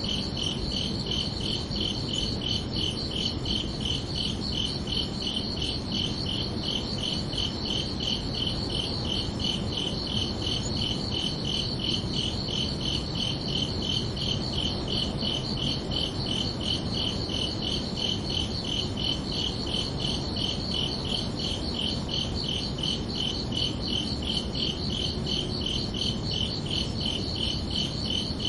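Crickets chirping in a steady, even pulse, several high chirps a second, over a soft low background hiss.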